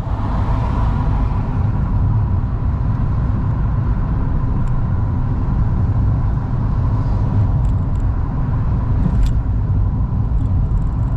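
Fiat 500S driving with its windows fully open: a steady, low road-and-wind rumble with engine noise in the cabin and a faint steady whine running through it.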